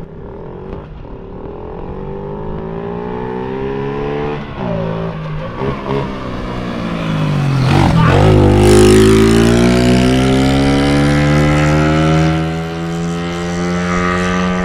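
Mini bike's small engine revving and pulling under throttle. Its pitch climbs, eases off, drops sharply about eight seconds in, then climbs again at its loudest before easing near the end.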